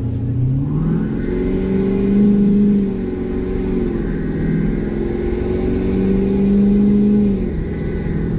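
2017 Ford F250's 6.7-litre Power Stroke turbo-diesel V8 through a 5-inch Flo-Pro straight-pipe exhaust, accelerating at part throttle. The pitch rises and holds, drops at a gear change about four seconds in, climbs again, then falls away near the end as the throttle eases.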